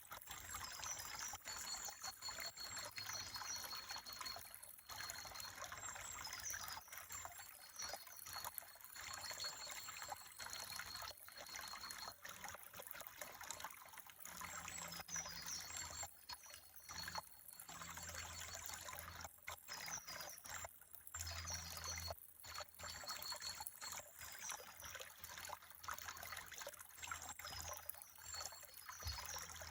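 Water trickling steadily, as in a small stream, with short high chirps now and then.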